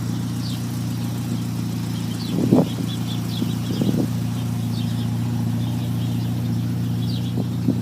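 Car engine idling steadily, with two brief knocks about two and a half and four seconds in.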